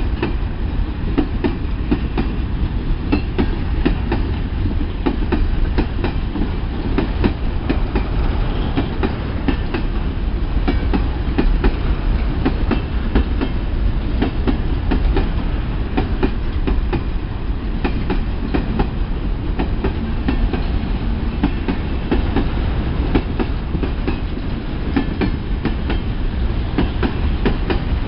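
Long freight train's cars rolling past: a steady low rumble of wheels on rail, with frequent clacks as the wheels cross rail joints.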